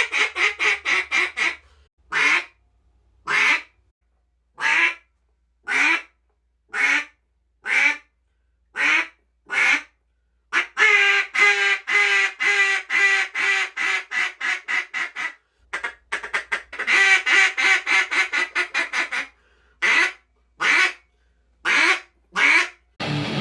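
737 Calls Chief single-reed duck call blown as a hen mallard: a short run of quick quacks, then single quacks about one a second, then two long strings of rapid quacks, and a few spaced quacks near the end. Loud and raspy.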